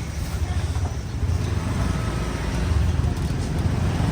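Motor vehicle noise: a steady low engine and road rumble.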